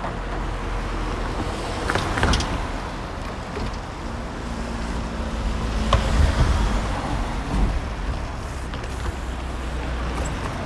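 Road traffic passing: a steady low rumble of vehicles with an engine hum in the middle and a few sharp clicks about two and six seconds in.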